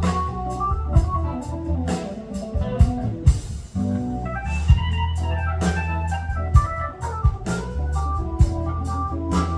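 Live band playing an instrumental passage: held keyboard chords over a steady bass, with drum hits throughout.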